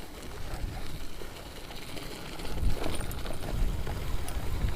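Mountain bike rolling down a dirt trail: a low rumble of tyres on dirt and wind on the microphone, with a few faint rattles. It grows louder about halfway through.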